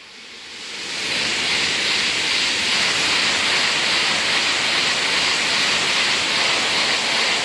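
Tokaido Shinkansen high-speed train passing through a station without stopping: a loud, steady rush of wind and wheel noise that swells in about a second, holds for about six seconds, then falls away quickly near the end.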